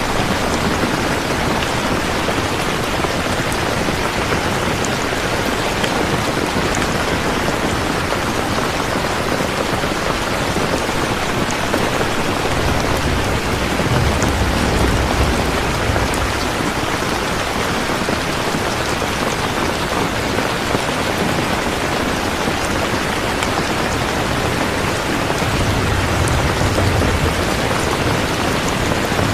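Steady, heavy rain falling. Low rumbles of distant thunder come twice, around the middle and again near the end.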